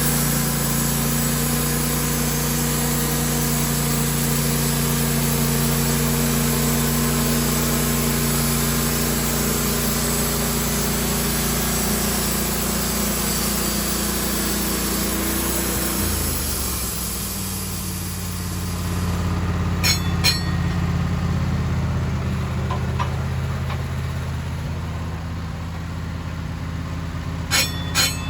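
Sawmill engine running steadily under load while the saw cuts through a pine log, with a high hissing rush. About two-thirds through, the engine note drops and the cutting hiss stops, followed by a few sharp knocks.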